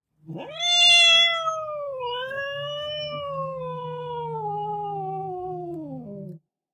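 A cat's long, drawn-out meow lasting about six seconds. It rises in pitch at the start, then slowly falls and cuts off.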